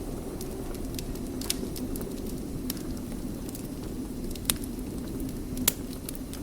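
Wood fire burning in a fireplace: a steady low rumble of flames with scattered small crackles and two louder pops of burning wood, the first about two-thirds of the way in and the second near the end.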